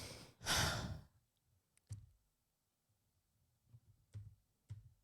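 A person sighing heavily into the microphone: a long breath out ending just after the start and a second one about half a second in. A few faint soft clicks follow.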